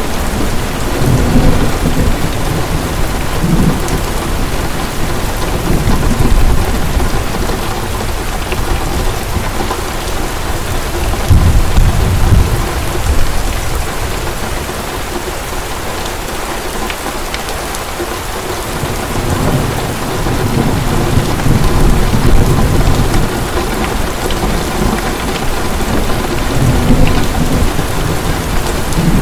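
Heavy, steady rain with thunder rumbling low again and again, in long rolls that swell and fade, the strongest in the middle and in the second half.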